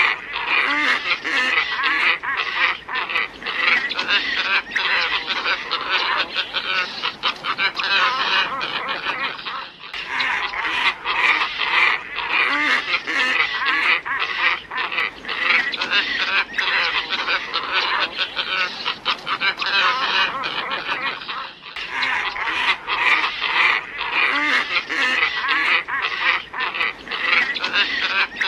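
Glossy ibis flock calling: many overlapping calls in a dense chorus, in a recording that breaks off and restarts about every twelve seconds.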